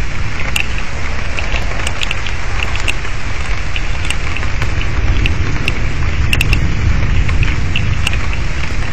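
Steady rain in a thunderstorm, with many sharp drop ticks scattered through it over a constant low rumble.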